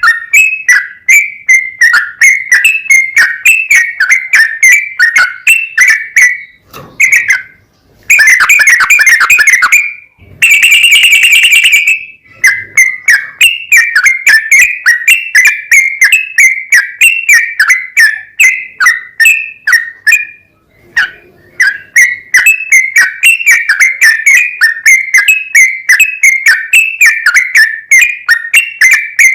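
Yellow-vented bulbul singing a long, rapid song of repeated chattering notes, about four a second. The song breaks off briefly twice and has a denser, unbroken stretch about a third of the way through.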